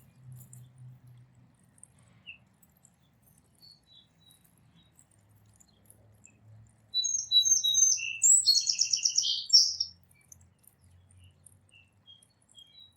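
A songbird sings one song about seven seconds in: a few quick, high, down-slurred notes, then a buzzy trill lasting about two seconds. Faint, scattered bird chirps come before and after it.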